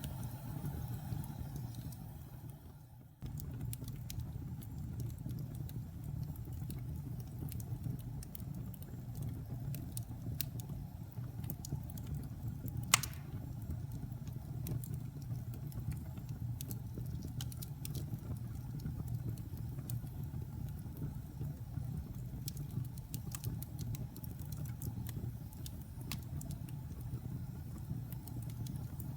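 Fire burning in a fireplace: a steady low roar of flames with constant small crackles and one loud sharp pop about halfway through. The sound fades away and cuts back in about three seconds in.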